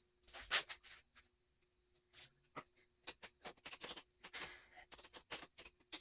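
Light, irregular clicks and taps of metal hand tools and small bolts as the little bolts are undone on the KTM 125SX two-stroke engine, over a faint steady hum.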